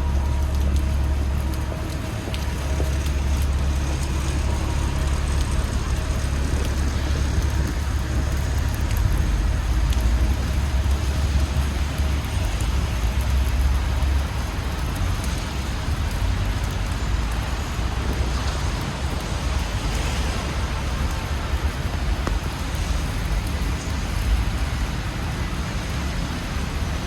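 Busy city street traffic on wet roads: cars passing with tyre hiss and a steady low engine rumble, the rumble heaviest for the first half, with rain pattering on surfaces underneath.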